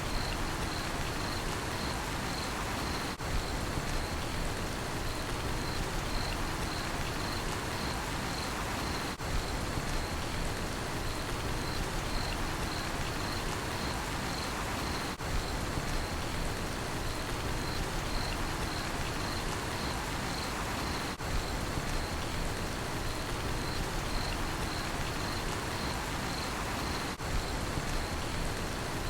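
Steady rainfall hissing, with a cricket chirping in an even, high-pitched pulse over it. The loudness dips briefly about every six seconds.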